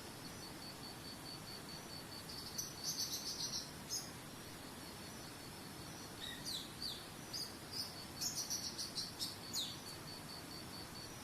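Songbirds chirping in two bursts of quick notes, some sweeping downward, over a steady rush of flowing water. A rapid, even series of high pips, about five a second, runs beneath them.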